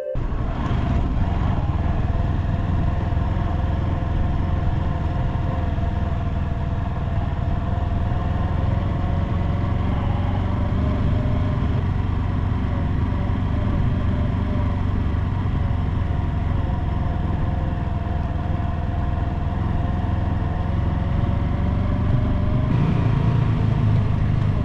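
A vehicle engine running steadily while driving along, with a constant low rumble of road and wind noise; its pitch drifts only slightly.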